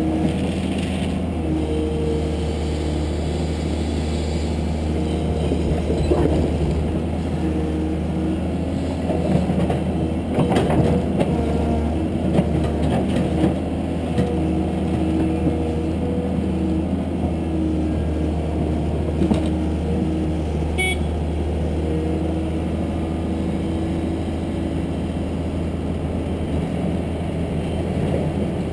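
Caterpillar 320C hydraulic excavator's diesel engine running steadily, its pitch shifting a little as the hydraulics take load. A cluster of clanks and knocks comes about ten to fourteen seconds in.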